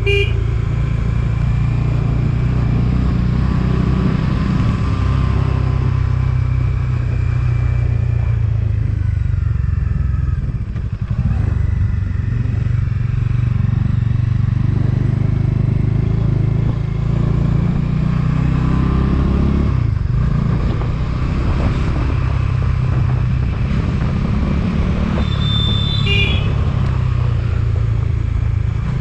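Motorcycle engine running steadily while riding, with a brief drop about 11 seconds in and a rise in pitch around 18 seconds as it speeds up. A short horn beep sounds near the end.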